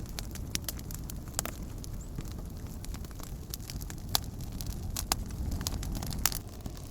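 Wood campfire crackling: irregular sharp pops and snaps, a few louder ones standing out, over a steady low rumble.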